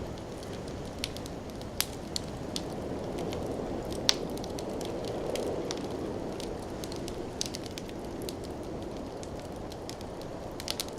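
Wood fire burning in a fireplace: a steady low rush of flame with irregular sharp crackles and pops, one louder pop about four seconds in.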